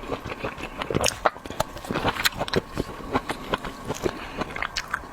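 Close-miked eating of seafood: a person biting and chewing, with irregular short mouth clicks and smacks.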